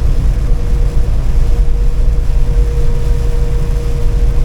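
Semi-truck cab interior while driving: a steady low engine and road drone with a faint constant whine above it.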